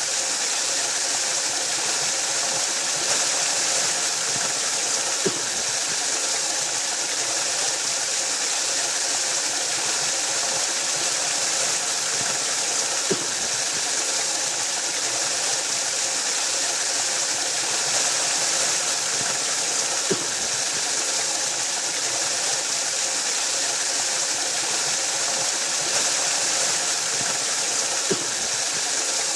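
Waterfall: a steady, hissing rush of falling water. A faint short knock comes about every seven to eight seconds.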